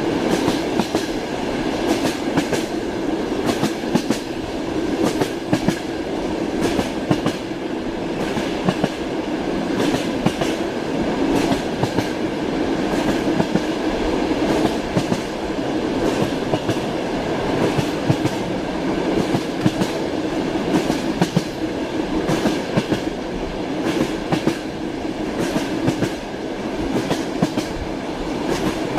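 Train wheels clacking over rail joints above a steady rolling rumble. The sharp clacks come in small clusters every second or two.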